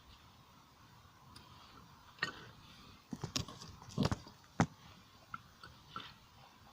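Short knocks and clicks of metal forging tools and the workpiece being handled: a cluster of sharp knocks in the middle, then a few light ticks, over a faint steady hiss with a thin whine.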